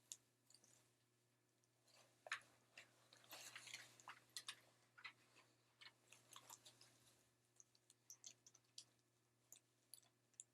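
Faint rustling and scattered clicks of a tactical vest and gear being handled and put on, busier in the first half and thinning to a few single ticks near the end.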